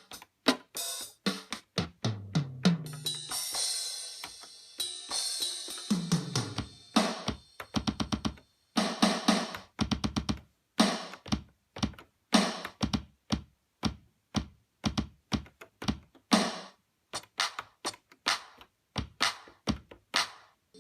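Roland R8 drum machine's sounds triggered one hit at a time from its pads: an irregular string of single drum hits of different kinds, some low thuds that drop in pitch, some with a hissing cymbal or hi-hat ring.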